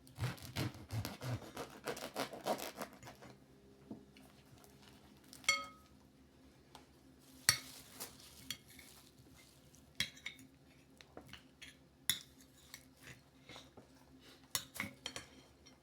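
Cutlery clinking and scraping on plates while eating, with a busy patch of scraping and clatter at the start and then scattered single clinks, one of which rings briefly about five and a half seconds in.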